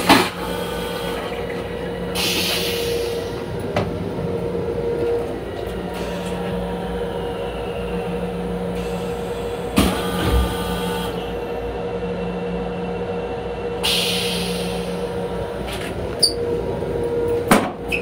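Long Island Rail Road M7 electric railcar running, heard from inside the car's restroom: a steady rumble with a constant hum. A few short knocks and clicks come through, and there are two brief hisses, about two seconds in and again near fourteen seconds.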